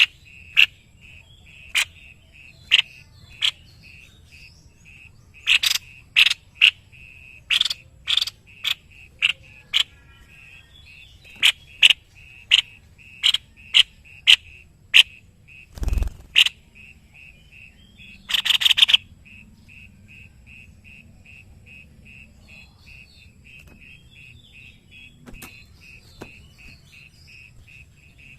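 White-necked babbler calling in a rapid series of short, sharp notes that thin out after the middle, with one buzzy rattle. Under them runs a steady, rhythmic pulsing chirp, and a single low thump falls about halfway through.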